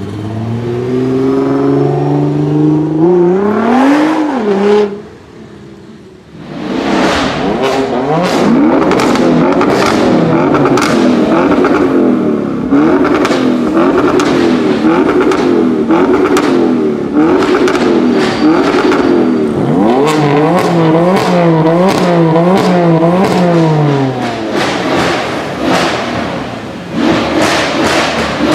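High-performance car engine being revved hard: one long climb in revs, a short lull, then repeated throttle blips rising and falling, fastest near the middle of the second half, with sharp cracks in between.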